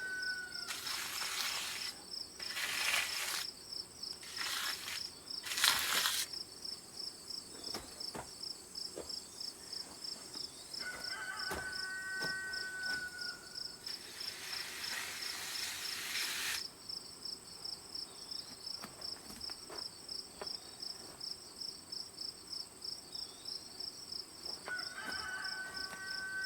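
Insects, crickets or similar, chirping in a steady pulsing rhythm throughout. Several short bursts of hissing noise break in during the first few seconds and again for about two seconds past the middle, and a brief clear whistle-like tone sounds twice.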